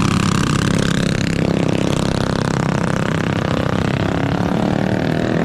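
Small mini bike engine running, its pitch shifting up and down as it is revved.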